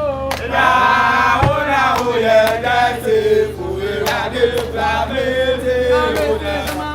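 Male voices singing a chant-like song, with several voices together and a steady low hum beneath.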